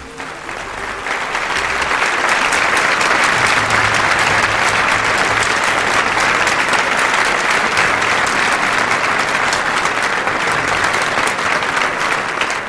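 Audience applauding and cheering at the end of a sung performance, swelling over the first couple of seconds and tailing off near the end.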